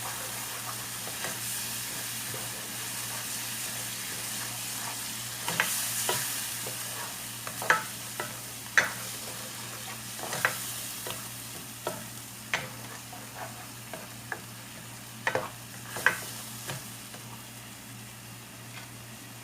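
Food frying in a pan with a steady sizzle while it is stirred, a cooking utensil clacking sharply against the pan about a dozen times through the middle of the stretch.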